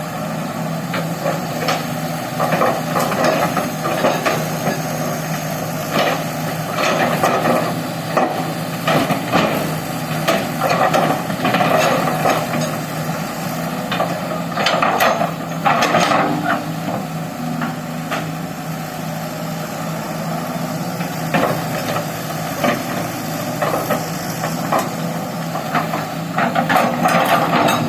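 Excavator's diesel engine running steadily under many irregular knocks and clanks as it works, with the loudest knocks about halfway through and again near the end.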